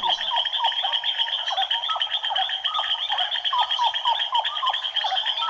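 Dense frog chorus: a fast, steady, high-pitched trill with many short calls overlapping at a lower pitch.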